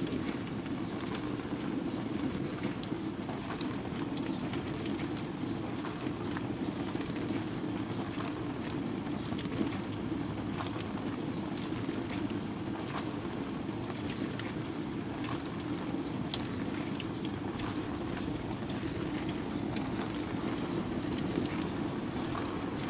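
Water splashing and churning inside a running household washing appliance, a steady wash sound with many small scattered drips and ticks.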